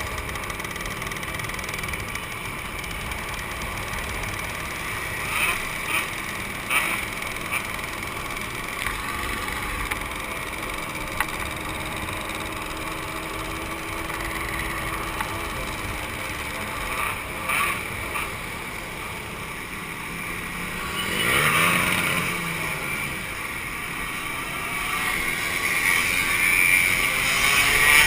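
Two-stroke motorcycle engines running, with short blips of throttle now and then. One engine revs up and back down about three-quarters of the way through, and engine noise builds again near the end.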